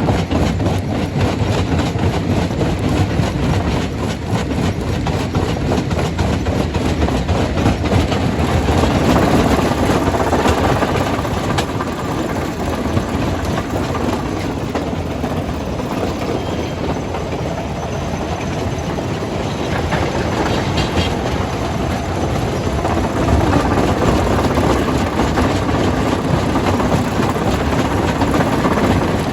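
Jaw crusher breaking rock: a steady heavy rumble with dense rattling clatter of stone, easing a little midway and picking up again near the end.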